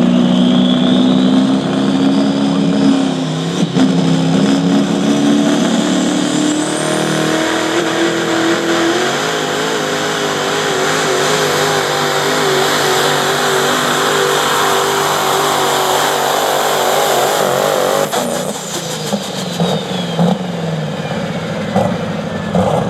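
Pulling vehicle's engine at full throttle dragging the weight sled, its pitch climbing steadily over the first several seconds, then wavering, and falling away about 18 seconds in as the pull ends.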